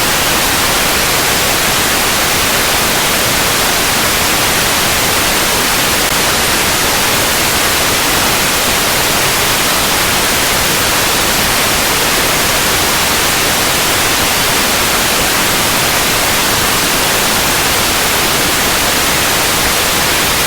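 Steady white noise: an even, unbroken hiss across the whole range, at a constant loud level.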